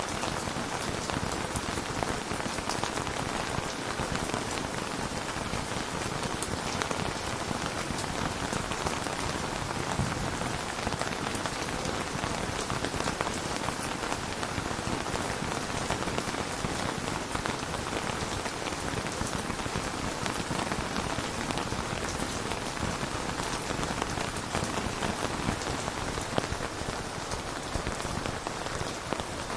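Steady rain falling, an even hiss of many fine drops pattering on a surface without let-up.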